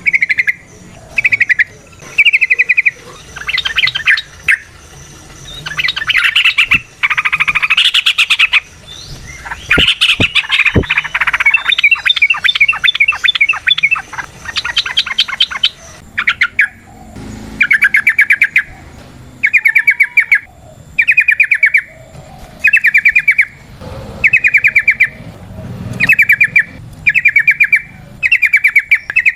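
Yellow-vented bulbul (trucukan) singing loud, short bubbling chattering phrases. They come busy and overlapping through the first half, then settle into separate phrases about once a second.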